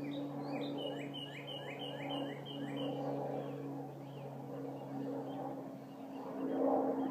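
An unexplained continuous drone with a steady low hum that swells and fades, heard as electronic and howling, like a frequency. Over it a songbird sings a quick run of about six repeated chirps in the first few seconds.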